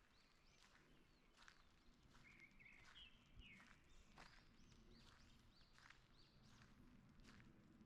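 Faint birdsong from several small birds: repeated short chirps, with a brief trilled phrase about two seconds in. Soft footsteps of a walker on a forest path sound now and then underneath.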